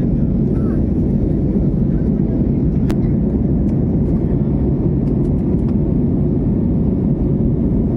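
Steady low cabin noise of an airliner in flight: engine and airflow noise heard from inside the cabin, with a single faint click about three seconds in.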